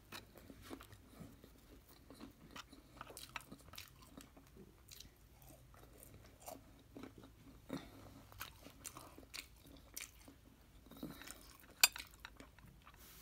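Close-up chewing of crispy fried food: a steady run of small irregular crunches and mouth sounds, with one sharp click near the end.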